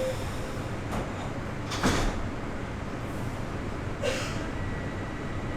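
Sliding doors of a Bombardier Toronto Rocket subway car closing, with a sharp thud about two seconds in and a smaller clunk about four seconds in, over the steady hum of the train. A faint high steady tone starts near the end.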